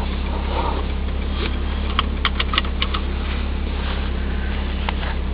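1990 Volvo 740 GLE's 16-valve four-cylinder engine idling steadily just after a cold start, warming up so the oil reaches the camshafts. A few sharp clicks sound over it about two to three seconds in, with one more near the end.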